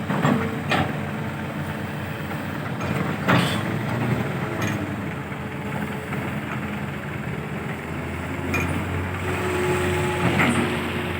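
Diesel engines of a Hitachi excavator and a Mitsubishi dump truck running steadily, with about five sharp metallic clanks spread through.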